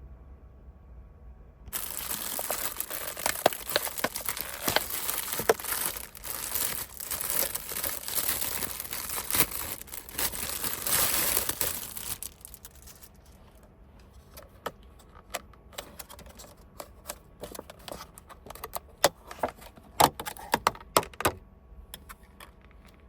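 Crinkling and rustling, like something crumpled or handled: dense and continuous for about ten seconds, then sparser crackles and clicks that stop a couple of seconds before the end.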